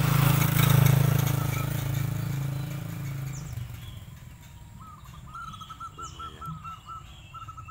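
A motor vehicle's engine passes, loudest about a second in and fading away by about three and a half seconds. Then a bird calls in quick runs of short repeated notes.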